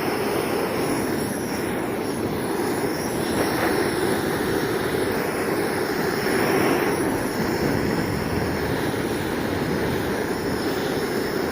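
Blowtorch flame running steadily with a continuous rushing hiss as it chars wooden roof shingles, swelling slightly a couple of times.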